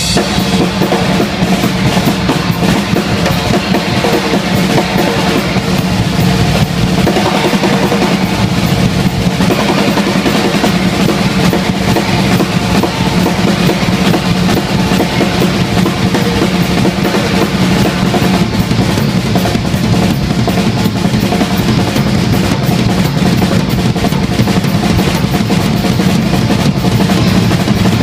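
Live heavy-metal drum solo on a full drum kit: fast, dense, unbroken pounding on the bass drums and toms with snare, opening on a cymbal crash.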